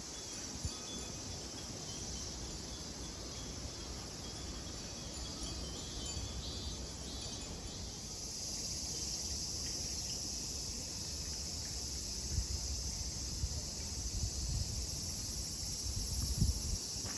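Cicadas singing in a steady, high, shrill drone that swells louder about halfway through, over a low rumble.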